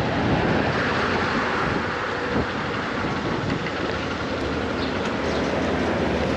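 Strong wind rushing over the microphone of a moving motorcycle: a steady, dense noise, with the motorcycle engine running low underneath.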